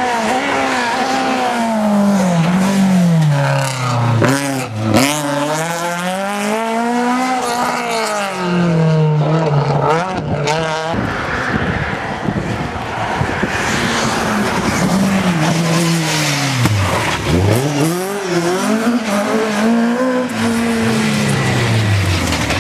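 Rally car engine revving hard, its pitch climbing and dropping again and again as the driver works through gear changes and lifts off the throttle, with a few sharp cracks along the way.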